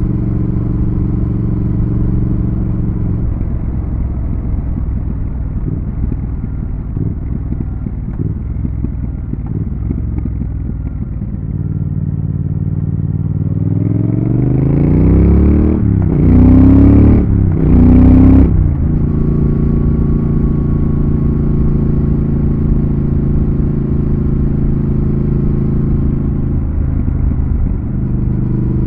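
Triumph Thruxton RS 1200 cc parallel-twin engine and exhaust while riding. The note is uneven off the throttle for several seconds. Then it rises sharply as the bike accelerates hard, with two brief breaks at the gear changes, and it settles into a steady cruise.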